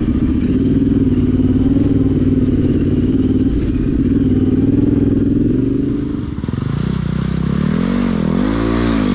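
Yamaha Ténéré 700 parallel-twin motorcycle engine running at steady revs, then after about six seconds the revs drop briefly and afterwards rise and fall again and again as the throttle is rolled on and off.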